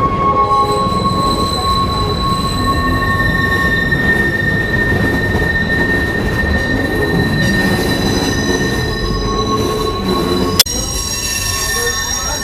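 Passenger train's wheels squealing against the rails on a slow curve: several steady high-pitched tones over the low rumble of the rolling cars. One sharp knock about ten and a half seconds in.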